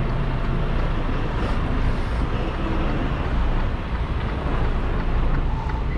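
Semi truck's diesel engine running steadily while the rig creeps forward at low speed.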